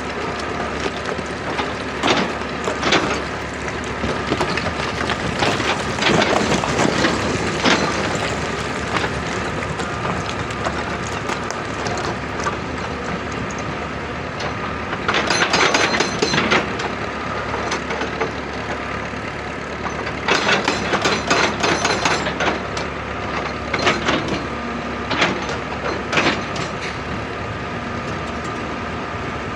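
Excavator diesel engine running steadily under load, with repeated bursts of rapid clattering impacts every few seconds from the machine working rock. The longest bursts last about two seconds each, one just past the middle and another a few seconds later.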